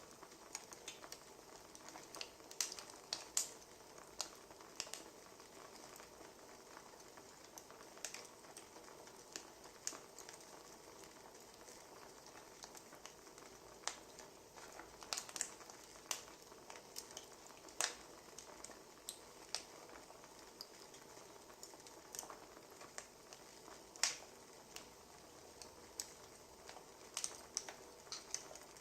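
Wood fire crackling: scattered sharp pops and snaps at irregular intervals over a soft steady hiss.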